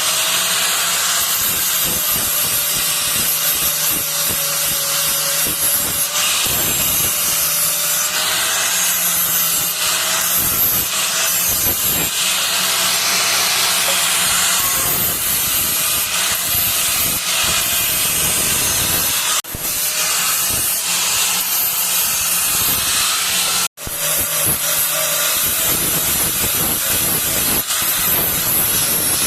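Steady grinding hiss of steel being ground, with a faint wavering motor tone beneath it: the blade of a hand-forged sickle-type vegetable cutter being shaped or sharpened. It breaks off briefly about three-quarters of the way through.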